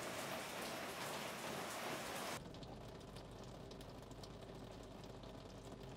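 Steady hiss of rain and water on a car, louder for the first couple of seconds, then dropping suddenly to a quieter rain patter with a faint low hum underneath.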